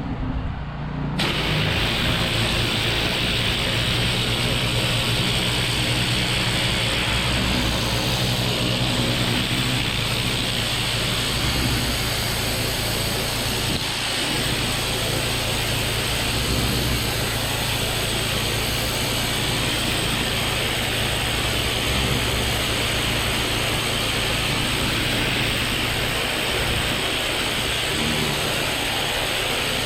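Pressure washer running steadily, its motor droning low under the continuous hiss of the high-pressure water jet, which cuts in about a second in.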